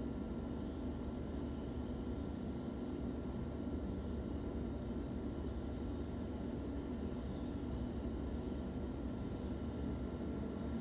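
Steady hum and whir inside a stationary electric suburban train standing at a platform, with a faint steady high whine over it.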